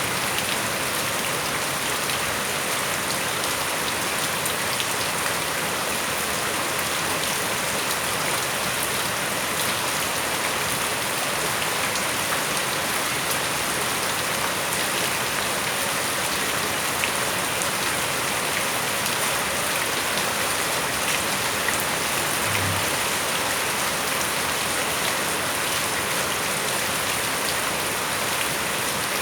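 Steady rain falling on surfaces around a house: an even, unbroken hiss with a dense patter of individual drops.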